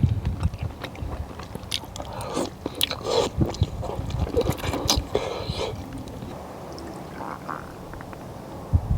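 Close-up eating sounds: a person chewing, with scattered small clicks and scrapes.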